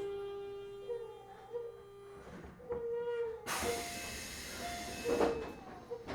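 Keio 7000-series electric train slowing, its drive giving a steady whine that steps between a few pitches. About three and a half seconds in there is a loud hiss of air lasting a second and a half, typical of the brake air as the train comes to a stop at a station.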